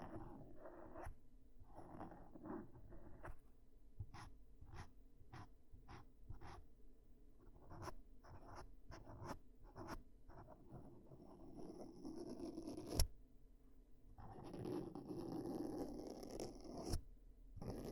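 Ear-cleaning sounds close on the microphone: a tool scratching and tapping in an ear, with a run of short clicks, one sharper click partway through, then a stretch of denser scratchy rubbing near the end.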